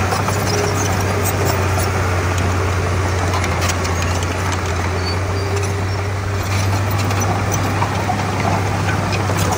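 Diesel engine of a Komatsu D31P bulldozer running steadily with a constant low hum, with occasional light clicks over it.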